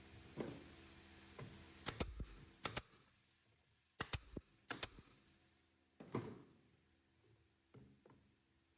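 Irregular sharp knocks and clicks, a dozen or so spread unevenly, several coming in quick pairs.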